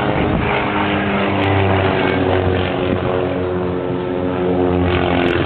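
An engine running steadily, a droning hum whose pitch shifts slowly.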